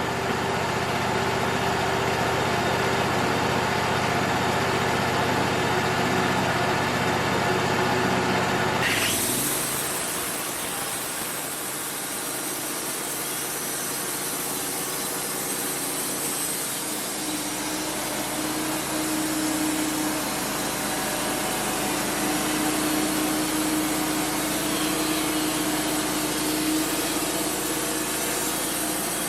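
Wood-Mizer LT35 band sawmill running steadily. About nine seconds in, the sound switches abruptly to a steady rushing, hissing saw noise as the band blade cuts through cedar, with less of the engine's low hum.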